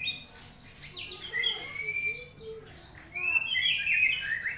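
White-rumped shama singing: clear whistled notes, a long held note about halfway through, then a quick, louder run of varied phrases near the end.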